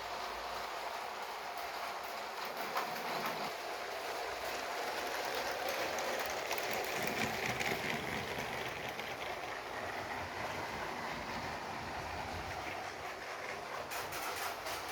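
Lego toy train running steadily along plastic track: a continuous motor whir with wheels rattling and clicking over the rails.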